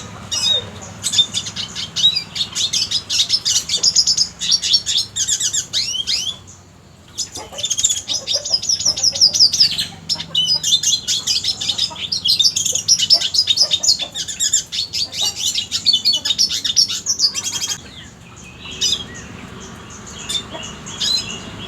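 Red siskin singing: long runs of rapid, high twittering and chirps, broken by a short pause about six and a half seconds in and a quieter spell near the end.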